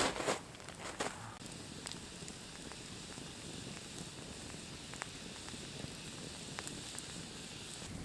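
Wood campfire burning: a steady hiss with an occasional sharp pop. A few louder scuffing bursts come in the first second.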